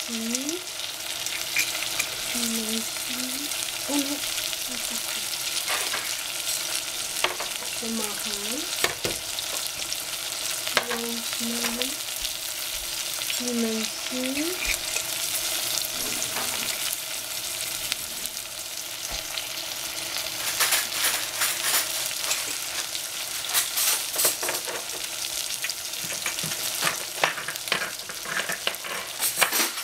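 Sliced onion and celery sizzling in oil in a stainless steel saucepan on the burner, a steady frying hiss. Short whistle-like notes repeat through the first half, and a cluster of small clicks and rattles comes about two-thirds of the way in, as a glass jar of dried herbs is handled over the pan.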